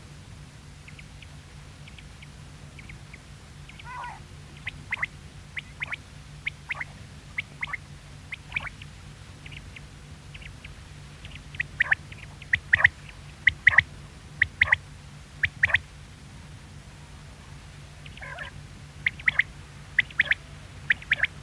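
Quail calling: short, sharp notes repeated in quick pairs and threes, loudest in the middle and near the end, over a steady low hum.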